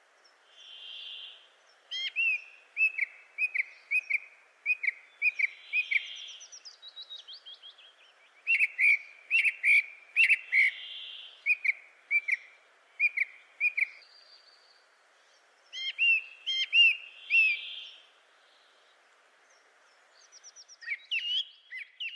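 Birds calling: runs of short, sharp chirping and whistled notes, with a soft, breathy whistle repeating every few seconds over a faint steady hiss.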